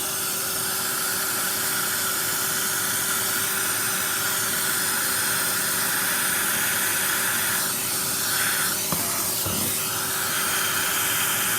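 Vacuum cleaner running steadily: a constant motor hum under a strong suction hiss, the hiss wavering briefly about eight seconds in.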